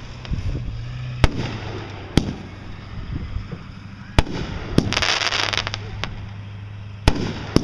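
Consumer fireworks going off: about six sharp bangs at uneven intervals, with a spell of hissing crackle around five seconds in.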